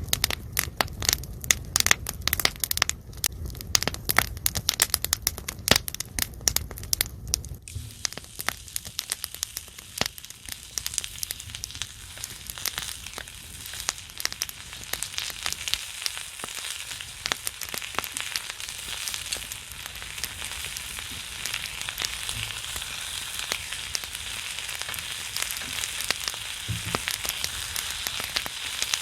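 Pine-wood fire under a griddle crackling with dense, sharp pops over a low rumble, giving way after about eight seconds to pork belly fat sizzling and spattering on the hot griddle in a steady, rain-like hiss with fine crackles.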